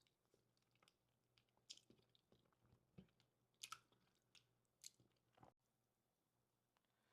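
Faint chewing: scattered wet mouth smacks and clicks from someone eating, which stop about five and a half seconds in.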